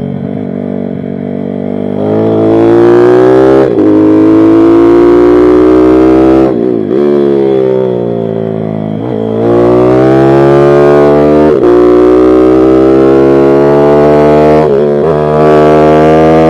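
Pit bike's single-cylinder engine ridden hard, its note climbing under throttle in repeated runs, each cut by a sudden drop in pitch as it shifts or the throttle closes; five such breaks, with a longer fall and rise in the middle.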